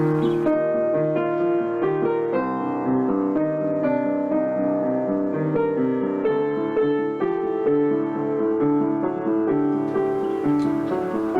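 Piano music: a melody of changing notes over held low bass notes.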